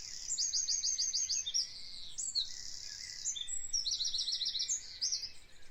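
Birds chirping, with several quick high trills of rapidly repeated notes.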